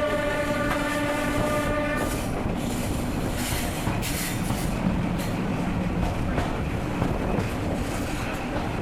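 InterCity 125 (HST) air horn held on one note, cutting off about two seconds in, followed by the steady rumble of the train running along the track.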